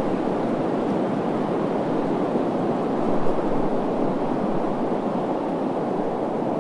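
Steady rushing wind, an even hiss weighted toward the low-middle range with no gusts or breaks.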